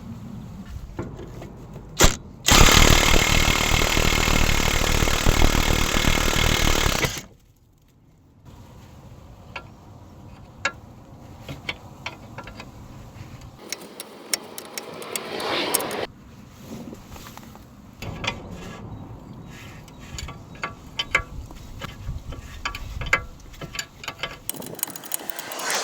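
A power tool, such as an impact or electric wrench, gives a short blip, then runs loud and steady for about four and a half seconds and stops abruptly. After it come scattered clicks and clinks of hand tools and metal parts being handled.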